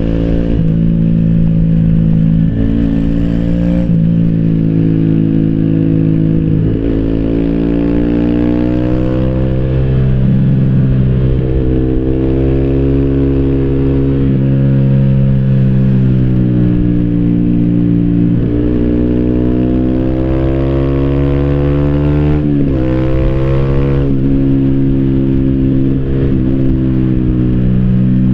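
Yamaha YZF-R125's 125 cc single-cylinder four-stroke engine through an Arrow Thunder slip-on exhaust with its dB-killer fitted, heard while riding. The engine note climbs and drops with the revs, broken by several gear changes.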